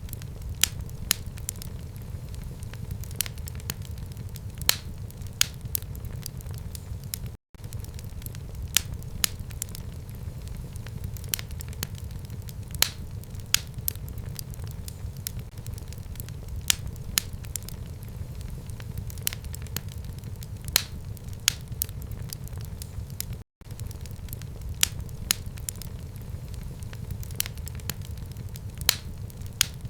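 Fire burning in a home fireplace: a steady low rumble with sharp, irregular crackles and pops, several a second. The sound cuts out for an instant twice, about a third of the way in and again about three quarters in.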